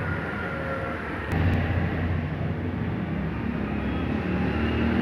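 Small motorcycle engine of a Hero Honda Splendor-type bike running after its rebuild, a steady low throb that gets louder about a second in.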